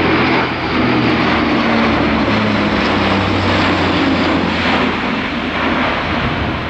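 Airbus A400M's four turboprop engines running loud, a propeller drone with low tones that shift in pitch as the aircraft flies its display.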